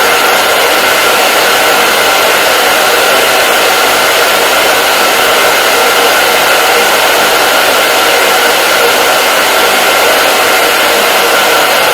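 Hair dryer running continuously at a steady pitch: a loud, even whoosh of blown air with a faint motor whine through it.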